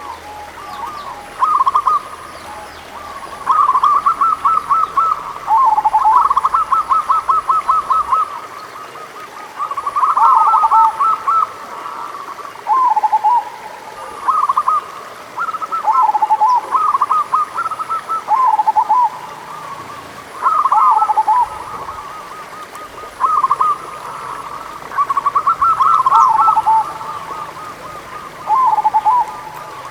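Zebra doves (perkutut) calling: repeated bursts of rapid staccato cooing notes, each phrase ending in lower drawn-out coos, coming every few seconds and sometimes overlapping.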